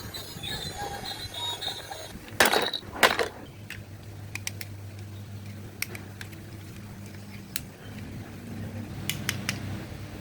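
Small hard clicks and two louder knocks close together a couple of seconds in, over a steady low hum.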